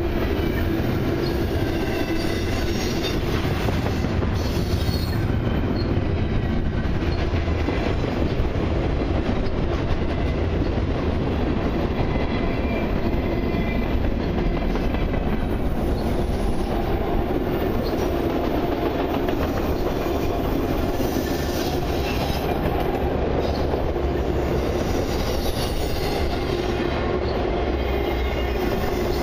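Freight cars of a long train rolling past close by: the steady rumble of steel wheels on the rails, with a steady low tone running under it throughout.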